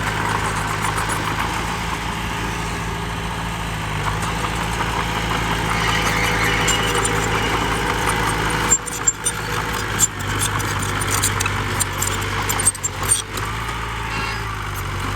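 Heavy diesel engine of earth-moving machinery running steadily with a low, even hum. A few brief sharp clicks and dropouts come midway through.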